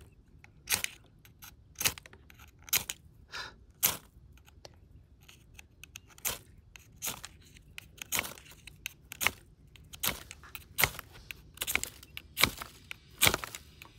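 Repeated short, sharp scrapes of a striker dragged down a fire steel (ferro rod) to throw sparks onto tinder, roughly one stroke a second at an uneven pace. The tinder is not catching, which the fire-lighters put down to it not being dry enough.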